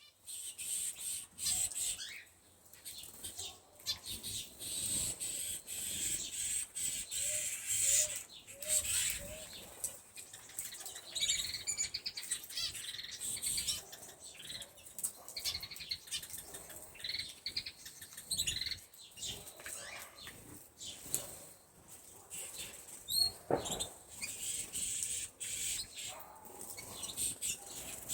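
Several canaries in a flight cage chirping and singing, with short fast trills and wing flutter among them.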